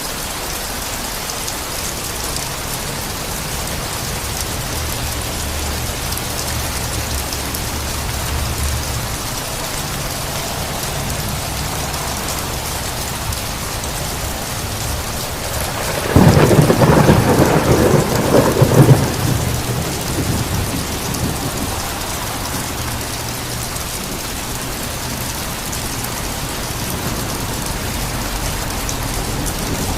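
Steady rain falling during a thunderstorm, with low rolling thunder, and about halfway through a sudden loud clap of thunder that crackles for a few seconds before dying away.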